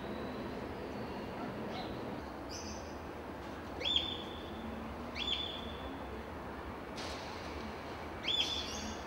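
A small bird chirps a few times, about four short calls. Each is a quick upward sweep that then holds briefly, over a steady low background hum.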